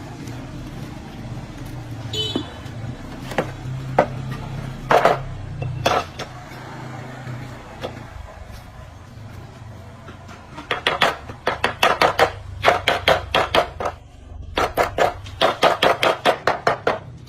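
A low running hum with a few single knocks, then, from a little past halfway, two runs of rapid sharp knocks, about three or four a second, with a short break between them.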